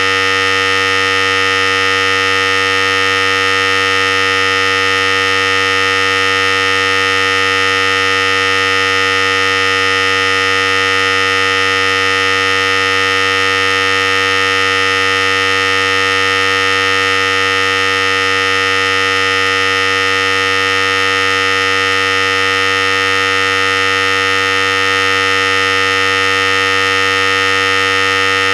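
Philips Series 5000 hair clipper running continuously, a steady electric buzz that holds one unchanging pitch.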